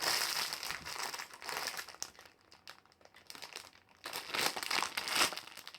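Plastic sweet packet crinkling as it is handled and opened, in two spells: one over the first couple of seconds and a louder one about four seconds in.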